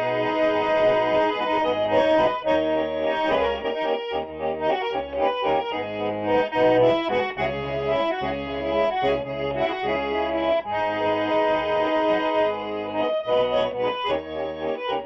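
Accordion playing an instrumental introduction: a melody of held notes over a regular beat of bass notes.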